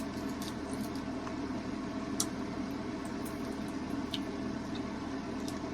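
Steady low room hum, like a fan or appliance running, with faint scattered clicks and smacks from someone chewing a chewy ginger candy.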